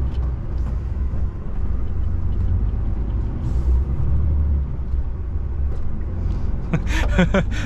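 DAF truck's diesel engine running steadily under way, heard from inside the cab, its sound mostly low and even.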